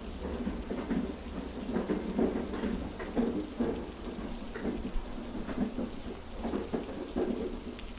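Heavy rain falling steadily, with irregular patters and a steady low rumble underneath.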